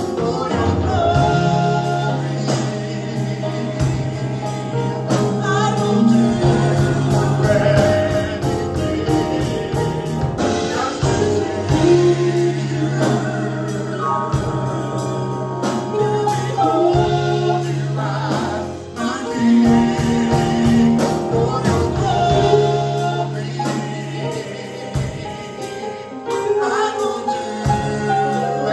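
Live gospel praise band playing with singers, a steady beat and sustained bass notes under the voices.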